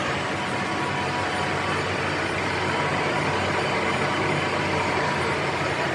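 Steady machinery noise with a low hum, unchanging throughout.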